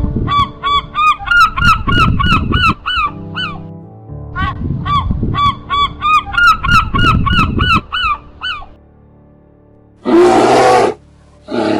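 An animal giving rapid honking calls, about three a second, in two bouts of about three and four seconds each. Near the end come two short, loud, harsh bursts.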